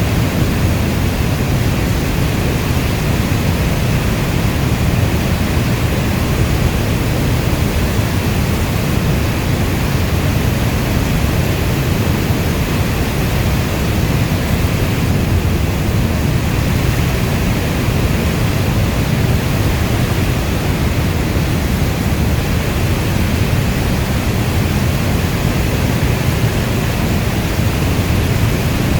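Heavy rain falling steadily as an even, unbroken hiss with a deep low rumble underneath; no separate drops or thunderclaps stand out.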